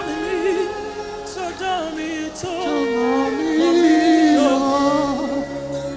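Church worship singing with instrumental accompaniment: a singing voice holds long, wavering notes, swelling louder around the middle.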